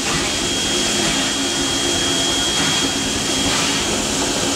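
Steady roar and hiss inside the cab of a moving oil-fired steam locomotive, with a thin high whistling tone throughout.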